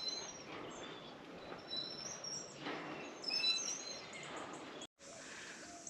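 Wild birds chirping outdoors: scattered short, high chirps and whistles over a faint steady hiss, with a brief total dropout about five seconds in.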